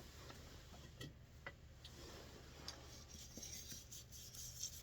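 Near silence: faint room tone with a few scattered, faint light clicks.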